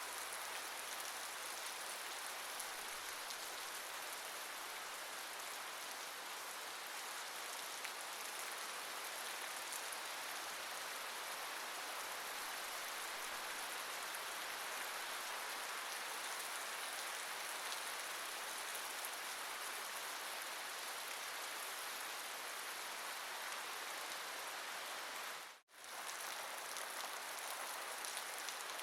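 Steady, even rain falling and pattering on surfaces. It cuts out for a split second about three seconds before the end and then resumes unchanged, like a loop point in the recording.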